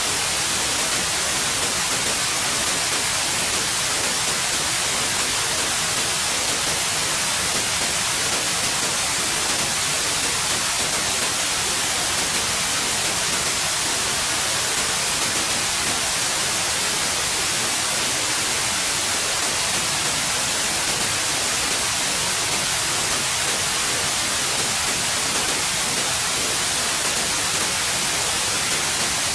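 Steady white noise: an even, unchanging hiss with no pattern or change.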